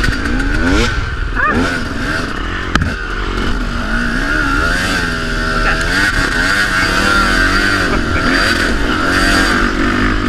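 Dirt bike engines revving up and down over and over under bursts of throttle, with more than one bike running at once.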